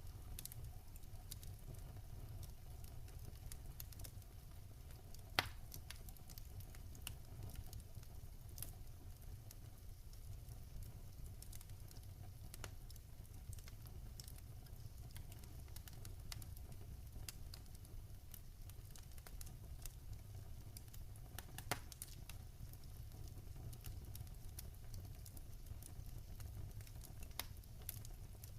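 Wood fire burning in a fireplace: a steady low rumble of flame with scattered sharp crackles and pops, two louder pops about five seconds in and again about twenty-two seconds in.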